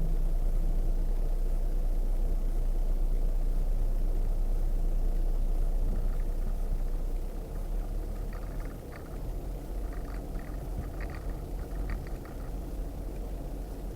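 Off-road vehicle's engine running slowly with a steady deep rumble as it crawls a trail. About seven seconds in it quietens, and a scatter of small clicks and knocks follows.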